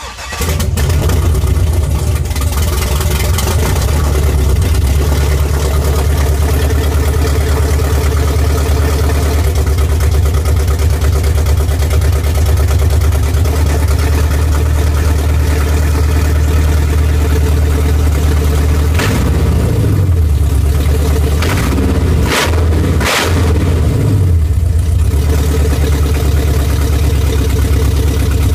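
A 6.2-litre L92 V8 in a 2008 Chevrolet Avalanche catches and starts on its first start after the engine swap, then runs steadily at idle, not yet tuned. Its engine speed dips and comes back up a few times about two-thirds of the way through.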